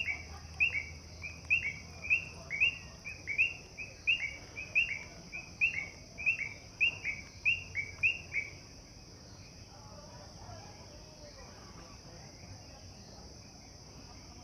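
A bird calling a fast run of short, down-slurred whistled notes, about two a second, in pairs stepping down in pitch; it stops about two-thirds of the way through. Behind it a steady high chorus of frogs runs on.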